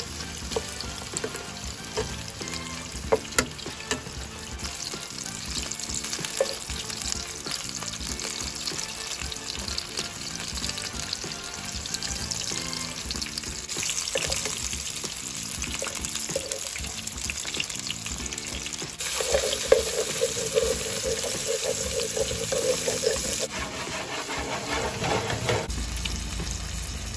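Meatballs sizzling in hot oil in a frying pan, with a few sharp clicks of metal tongs as they are turned.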